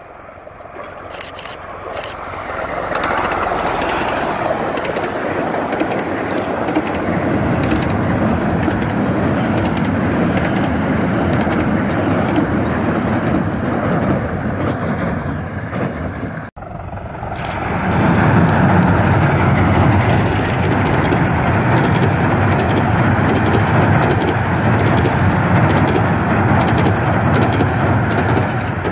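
A 15-inch gauge Romney, Hythe & Dymchurch Railway train running past close by, a steady rumble of wheels and coaches on the track that builds over the first few seconds. It breaks off about halfway, then comes back louder and deeper as another train passes.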